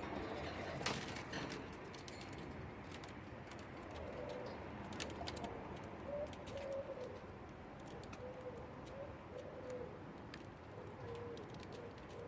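A bird cooing: a run of short, soft, low notes from about four seconds in, with small sharp clicks scattered throughout.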